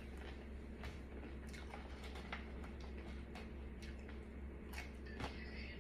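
Faint chewing with wet mouth clicks and lip smacks, irregular, a few a second, over a steady low hum.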